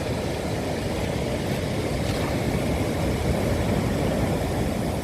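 Rough sea surf breaking on the shore: a loud, steady rushing noise with a deep rumble underneath.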